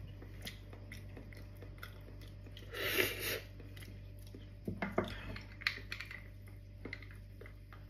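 Close-up chewing and mouth sounds of someone eating gelatinous stewed cow feet. There is a short, louder sucking slurp about three seconds in and scattered small clicks.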